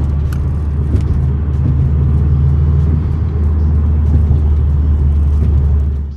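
Engine of a small turbocharged car, heard from inside the cabin while driving: a steady low drone with road noise.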